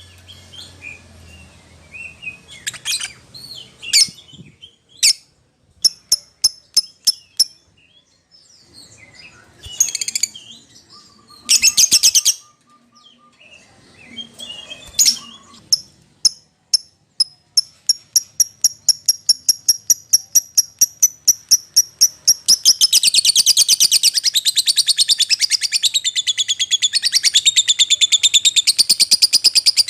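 Lovebird calling: scattered sharp high chirps that quicken into a fast run of chirps, then break into a continuous rapid chatter about three-quarters of the way in.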